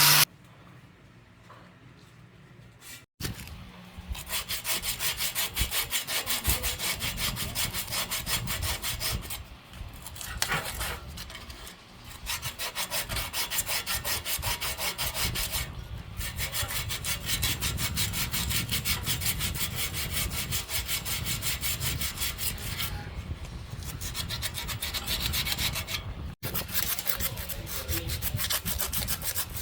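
Rapid, rhythmic back-and-forth scraping strokes of a hand tool worked against a workpiece, like sawing or filing. They begin a few seconds in and go on in runs broken by short pauses.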